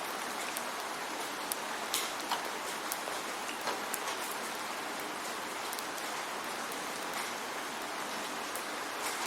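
Steady rain falling, with scattered louder drips and drops striking a surface.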